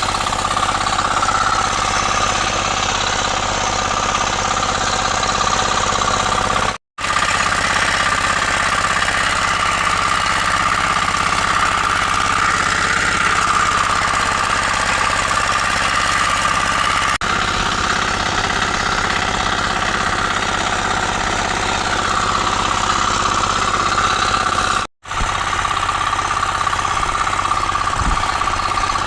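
A 9.5 hp power weeder's engine running steadily at a constant speed. The sound cuts out for an instant twice.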